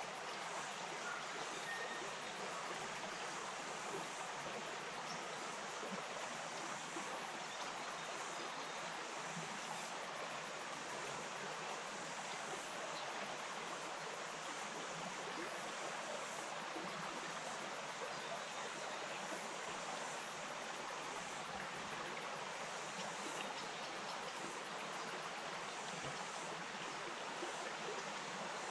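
A small bush stream flowing and babbling over stones in a steady, even rush of water.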